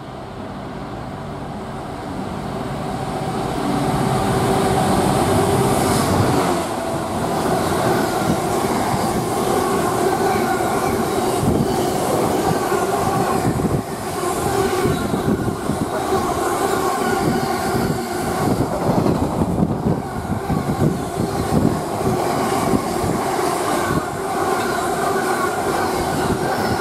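A Class 66 diesel-hauled container freight train passing close by: the locomotive's engine builds up over the first six seconds and drops away suddenly as it goes past, then a long run of loaded container flat wagons rolls by with steady rumbling, wheel clatter and a steady whine from the wheels.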